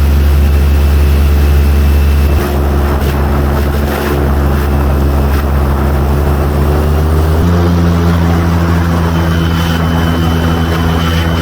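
Airboat's engine and large air propeller running loud at speed, a steady drone whose pitch shifts about seven and a half seconds in.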